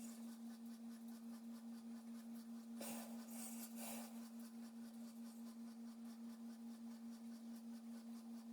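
A steady low electrical hum. Two brief, faint scratchy rustles come about three and four seconds in.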